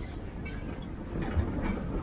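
Riding in a steam locomotive's cab as it rolls along the track: a steady low rumble with irregular knocks and rattles from the wheels and cab, a little louder after about a second.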